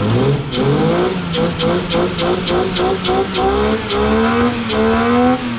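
Toyota 2JZ inline-six engine running just after starting and being revved. Its pitch climbs quickly in the first half-second, then holds high and creeps slowly higher, with a rapid regular flutter on top.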